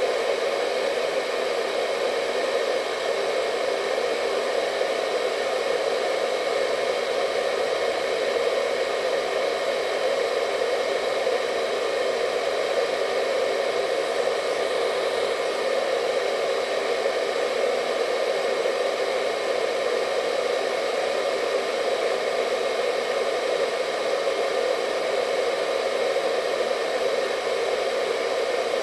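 Hair dryer running continuously at a steady speed: an even rushing hum of air and motor, strongest in the lower middle, with a faint steady whine above it.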